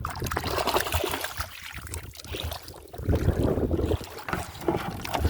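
Seawater sloshing and splashing in irregular surges, with wind rumbling on the microphone.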